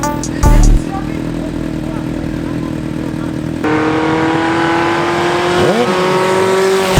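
Motorcycle engine running at steady revs, its pitch creeping up, with a quick rev up and back down about six seconds in.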